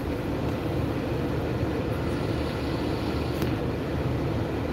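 Ford Fusion's engine idling while parked, a steady low hum heard from inside the car's cabin.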